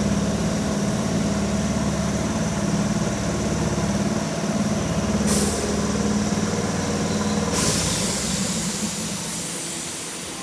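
Keihan 2200 series electric train at the platform with a steady low hum. A short hiss of air comes about five seconds in, then a longer, louder air hiss from about seven and a half seconds, typical of the air brakes.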